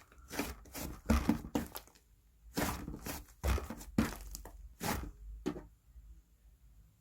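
Slime being squeezed and stretched by hand, making a run of sticky crackles and pops, with a short pause about two seconds in; the sounds stop about five and a half seconds in.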